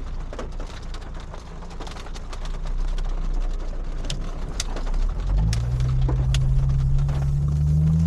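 Audi S5 driving in the rain, heard from the cabin, with raindrops ticking on the car and a low road hiss. About five seconds in, the engine's drone swells and climbs slowly in pitch as the car accelerates.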